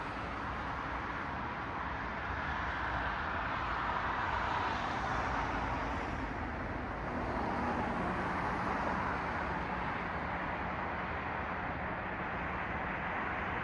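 Road traffic: cars passing on a city street, a steady rush of tyre and engine noise that swells twice as vehicles go by. From about seven seconds in, a low engine hum joins it.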